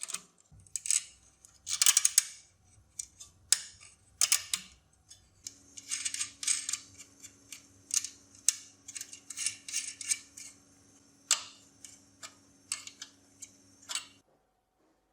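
Workshop handling sounds: a quick series of sharp clicks and short scrapes of tools against small metal parts. A steady low hum comes in after about five seconds. Everything stops abruptly a second before the end.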